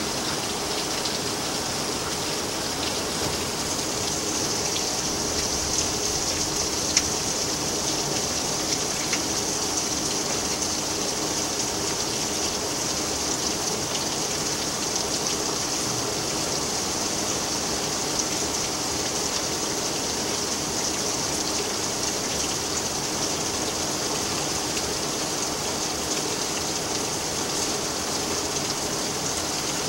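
Rain falling steadily, an even hiss with an occasional single drop ticking more loudly.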